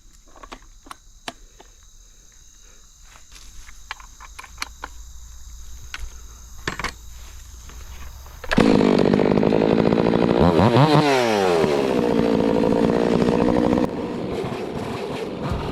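Scattered light clicks and rustles, then a chainsaw suddenly comes in loud about halfway through, running at high speed; its pitch drops and climbs back once, and it eases off slightly near the end.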